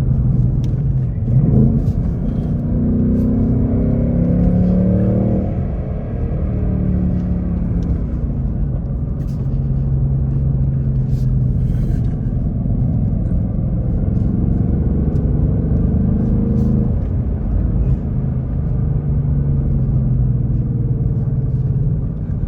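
2024 Ford Mustang GT's 5.0-litre Coyote V8 with active exhaust, pulling the car along: the engine note climbs in the first few seconds as it accelerates, then holds steadier.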